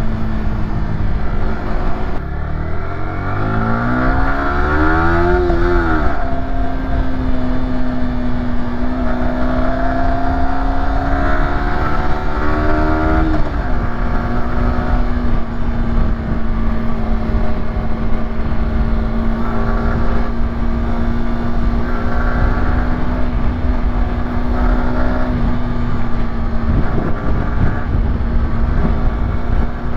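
Yamaha YZF-R125's 125cc single-cylinder engine under way: the revs climb for a few seconds, drop with an upshift about 6 seconds in, rise slightly, drop again with a second shift about 13 seconds in, then hold steady while cruising.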